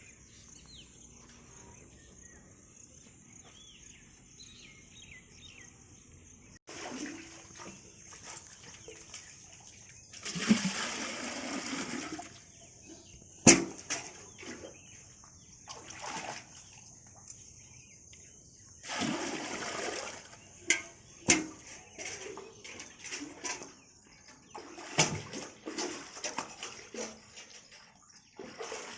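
Water splashing and pouring in short bursts of a second or two, with several sharp knocks in between. The first few seconds hold only faint insect and bird sounds.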